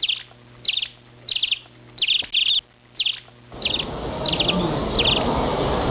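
A bird chirping in short, rapidly pulsed calls, repeating a little more than once a second. About three and a half seconds in, a steady noisy background din comes in under the calls.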